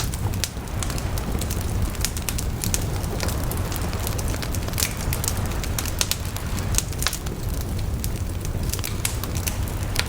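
Wood fire burning, with a steady low rumble and frequent sharp crackles and pops of the burning wood at irregular intervals.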